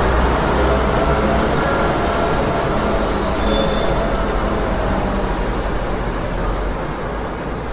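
City street traffic noise: a steady low rumble of passing vehicles that slowly fades, with a brief high tone about three and a half seconds in.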